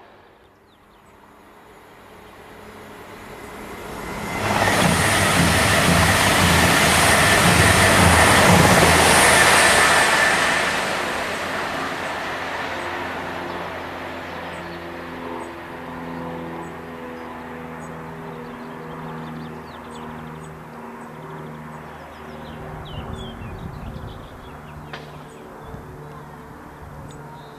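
Passenger train passing close by at speed on the main line, a loud rush of wheels and air that swells about four seconds in, then fades slowly as the train draws away. Faint bird chirps come through as it dies down.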